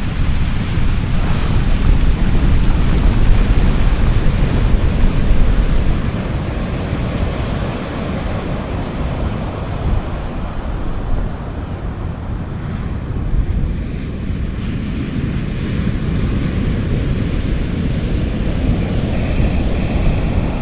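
Sea waves washing on a beach, with wind rumbling on the microphone. The wash is louder for the first six seconds, then eases to a steadier, softer hiss.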